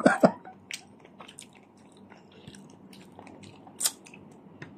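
People eating shawarma: quiet chewing with scattered soft mouth clicks and light handling of the food, and one sharper click just before four seconds in.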